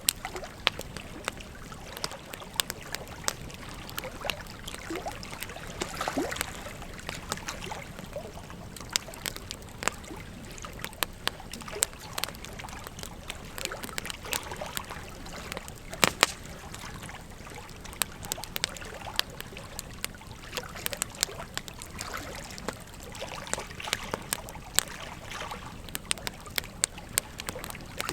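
Wood fire crackling with frequent sharp pops over the steady rush of a flowing river; one pop a little past the middle is louder than the rest.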